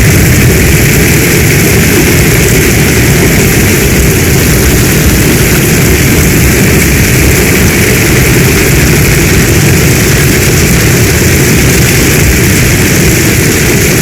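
Heavy storm rain falling in a steady, unbroken roar, with a deep rumble underneath.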